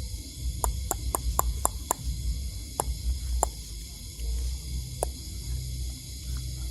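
A series of sharp knocks: six in quick succession, about four a second, then three more spaced out, over a low rumble.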